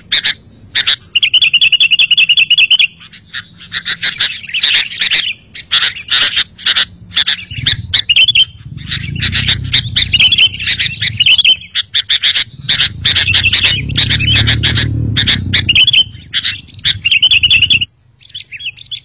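Sooty-headed bulbuls singing and calling loudly in a dense run of chirps and short phrases, with a fast even trill about a second in. A low rumble swells twice midway, and the song stops about a second before the end.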